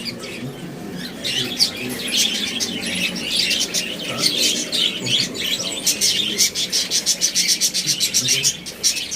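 Many small birds chirping at once: a dense, continuous chatter of short, high chirps that grows busier about a second in.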